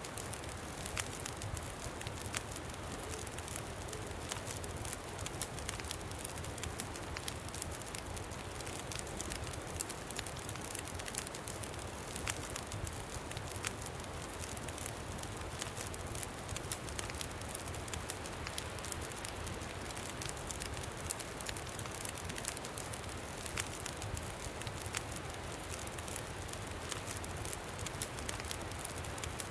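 Campfire crackling with frequent small pops, over a steady rush of wind.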